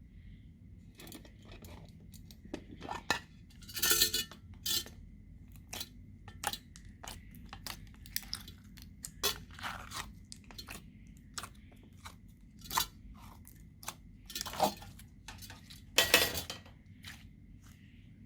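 Slime being worked and mixed by hand, giving irregular crunches, crackles and small clicks. The loudest crackles come about four seconds in and again near the end.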